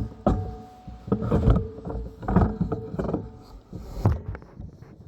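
Irregular handling noise: rustling and knocks, typical of a pepper plant's stems and leaves being handled, with a faint steady hum underneath.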